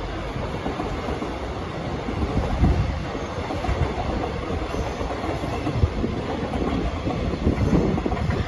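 Passenger train running on the rails: a steady rumble with wheel clatter.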